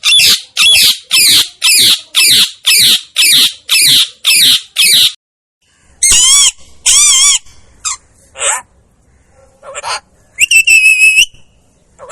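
Pet parakeet screeching. First comes a run of about ten loud, rapid calls, roughly two a second. After a short pause come a few longer, wavering calls, then shorter calls and a shrill, whistle-like call near the end.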